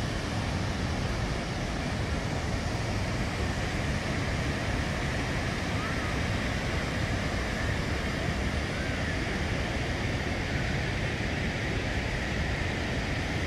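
Steady, unbroken rushing roar of a large waterfall, heavy in the low end.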